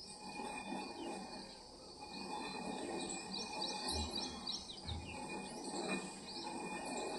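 Birds chirping and calling at dawn over a steady low background murmur, with a quick run of repeated high notes about halfway through.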